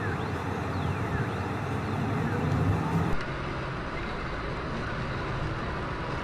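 Car driving noise picked up by dash cameras: steady engine and road rumble. A high sweeping tone repeats about once a second in the first half, and the sound changes abruptly about three seconds in.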